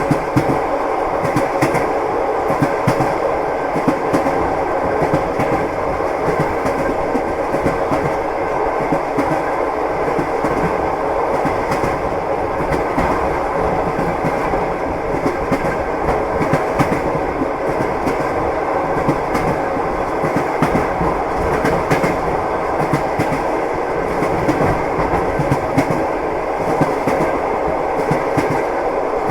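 Train wheels clattering over the rail joints as the train runs: a steady rolling rumble with frequent clicks and knocks throughout.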